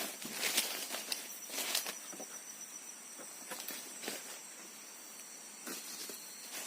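Steady high-pitched insect drone, with scattered rustles and sharp clicks on top, the loudest of them in the first two seconds.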